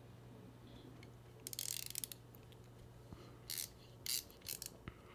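Small hand ratchet clicking as a screw in a knife's scale is turned: a quick run of clicks, then a few single clicks.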